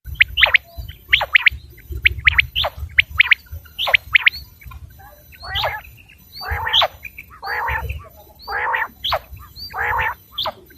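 Common quail calling: quick groups of two or three sharp, falling notes, then from about halfway harsher, lower calls repeated about once a second, over a low rumble.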